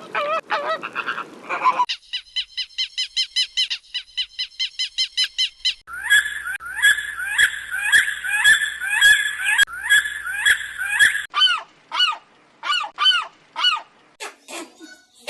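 A sequence of different bird calls, one species after another. Honking calls open it, followed by a fast run of high repeated notes, then a dense series of loud repeated calls, and near the end spaced calls that sweep down in pitch.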